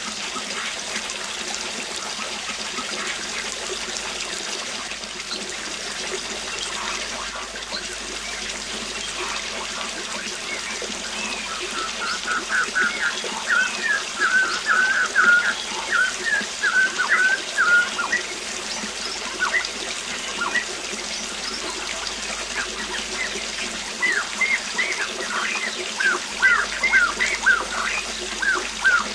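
Waterfall rushing steadily, with a bird singing rapid runs of short chirping notes, once around the middle and again near the end.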